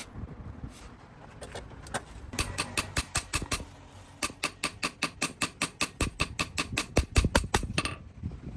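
Hammer striking metal on an anvil in quick, even blows, about five a second, in two runs: a short one about two seconds in and a longer one from about four seconds to near the end.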